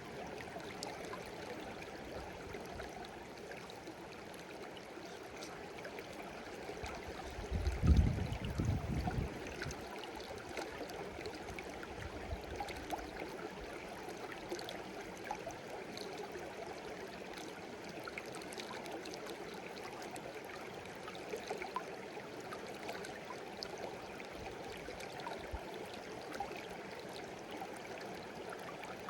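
Shallow stream babbling steadily over stones, with a brief low rumble about seven seconds in that lasts around two seconds.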